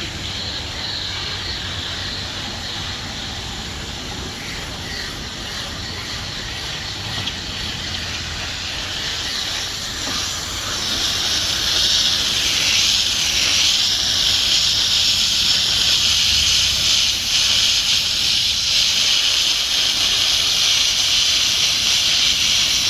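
Water spray hissing steadily as it rinses an air-conditioner condenser coil clean with plain water, growing louder about halfway through.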